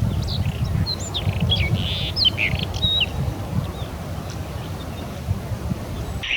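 Several birds chirping and whistling in quick short calls, busiest in the first three seconds and thinning out after, over a steady low rumble.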